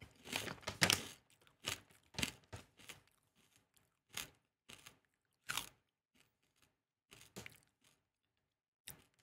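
Close-miked chewing of crispy fried fish-skin chips. Rapid crunches come thick in the first second, then single crunches follow every half second or so and thin out toward the end.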